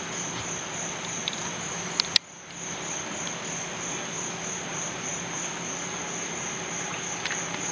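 Steady high-pitched insect trilling, typical of crickets, over an even hiss, with two sharp clicks about two seconds in.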